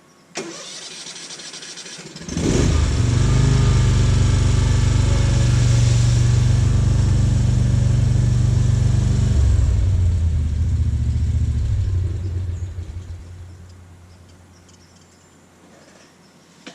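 Small gasoline engine cranked by its electric starter for about two seconds, catching and then running loud and steady, its note dropping lower about nine seconds in before it fades away.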